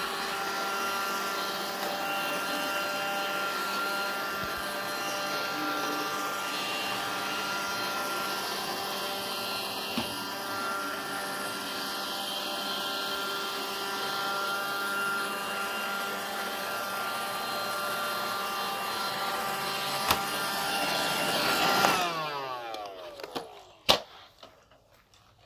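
iRobot Roomba 560 robot vacuum running a cleaning cycle: a steady whine from its vacuum motor and brushes, with a knock about ten seconds in and another about twenty seconds in. Near the end the motors are switched off and wind down with a falling pitch, and a single sharp click follows.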